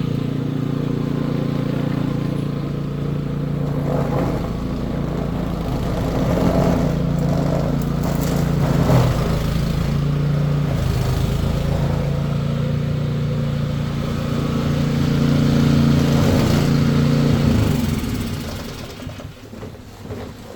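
An engine running steadily, with a few brief knocks or scrapes over it; it dies away near the end.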